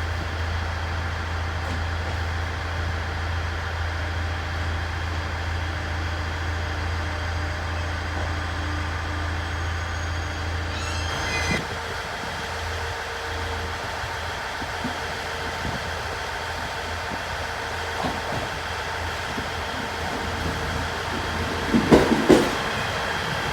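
Trains at a station: a steady low hum with held tones, easing about halfway through. Near the end come a few loud knocks of train wheels over rail joints.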